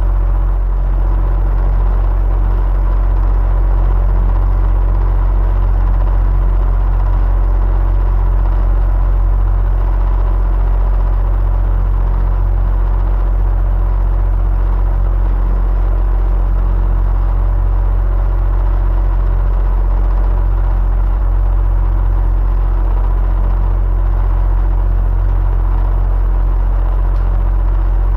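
Electric fan running steadily: a constant low hum and whir with a faint steady tone, unchanging throughout.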